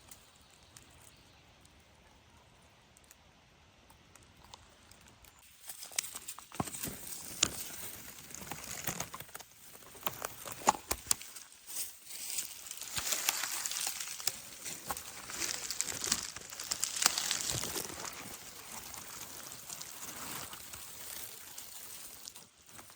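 Faint for the first five seconds or so, then footsteps crunching through dry leaves and twigs on the forest floor, with crackles and snaps.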